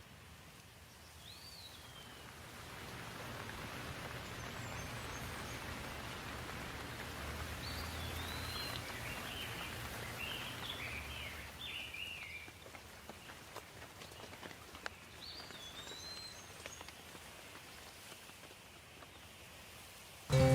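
Soft rain falling steadily, swelling for several seconds and then easing off, with birds chirping a few times over it.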